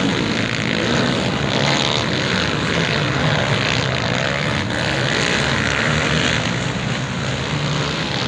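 Motocross motorcycle engines running hard on the track, a steady buzzing drone.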